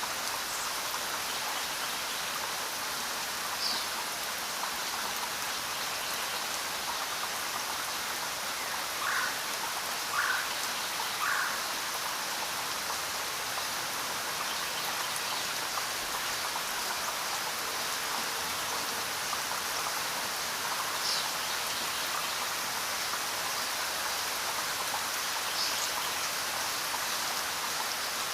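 Steady rain falling, an even hiss of drops. A few short faint calls come through it, three of them about a second apart near the middle.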